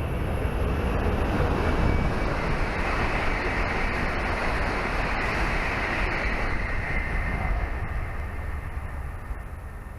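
Hokuriku Shinkansen Kagayaki train passing straight through the station at about 260 km/h: a loud rushing roar that builds within the first second, holds, and fades from about eight seconds in.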